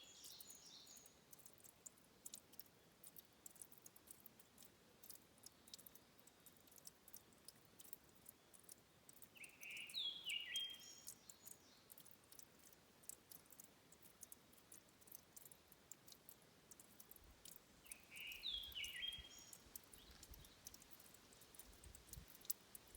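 A small songbird singing short phrases of quick repeated chirping notes, once at the start, again about ten seconds in and again near nineteen seconds, faint against a near-silent background with scattered light ticks.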